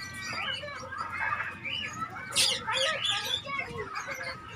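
A crowd of caged parrots and lovebirds chattering, chirping and squawking over one another, with a sharp squawk about two and a half seconds in.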